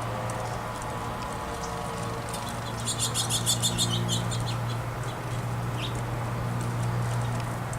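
A small songbird at a feeder gives a quick run of about a dozen high chirps, just over a second long, about three seconds in, with a few faint single chirps around it, over a steady low hum.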